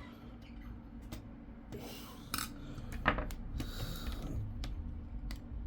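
Laptop heatsink and fan assembly being worked loose from the motherboard by hand: scattered small metallic clicks and scrapes, with a sharper click about three seconds in.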